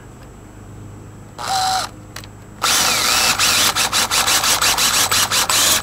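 Power drill boring a pilot hole: a brief spin of the drill about a second and a half in, then about three seconds of continuous drilling that stops abruptly.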